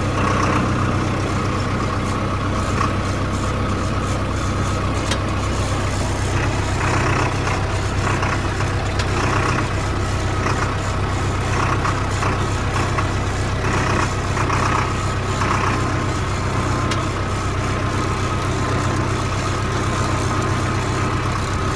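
Farmtrac 6055 tractor's common-rail diesel engine running steadily, with brief bouts of higher rattling noise in the middle stretch.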